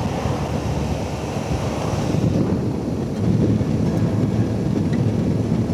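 Wind rushing over the microphone with a Suzuki V-Strom motorcycle's engine running underneath as the bike moves off, getting a little louder about halfway through.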